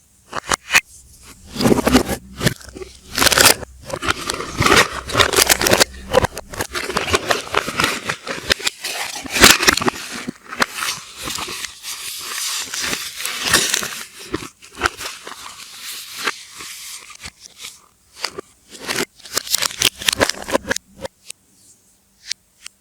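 Soap wrappers and packaging being handled and unwrapped: irregular rustling, crackling and scraping with sharp clicks, played in reverse. It dies away about two seconds before the end.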